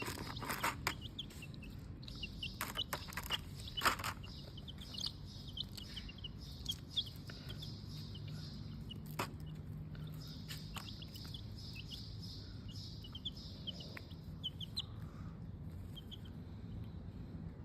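Baby chicks peeping: many short, high cheeps throughout, with a few sharp clicks, the loudest about four seconds in.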